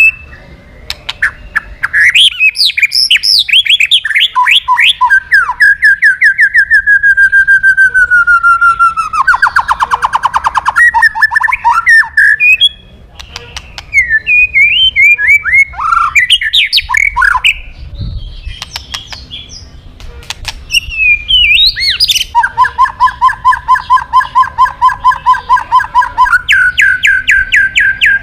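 White-rumped shama (murai batu) singing loudly in varied, fast phrases: quick runs of notes sliding downward, a buzzy trill, and near the end a long series of rapid repeated two-note strokes. This is the loud 'gacor' song of a male challenging a rival.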